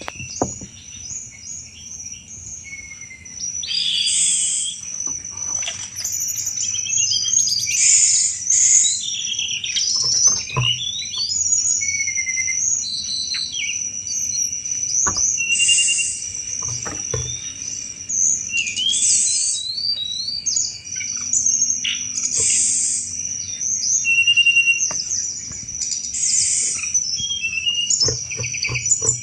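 Tledekan gunung calling in its rattling 'cetrekan' style: short bursts of chattering, chirping notes every second or two, over a steady high ringing tone.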